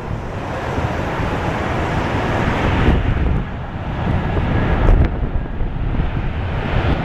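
Rumble of an Airbus A319's IAE V2500 jet engines as it lands, largely covered by wind buffeting the microphone.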